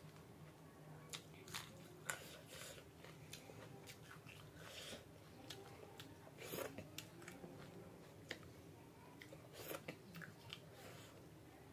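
Faint chewing and mouth sounds of a person eating a meal of rice, dal and curry, with scattered short clicks at an uneven pace.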